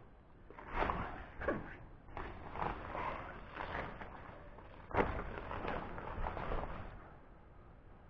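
Tent fabric being handled and unfolded: irregular rustling and crinkling with a few soft knocks, loudest about a second in and again around five seconds.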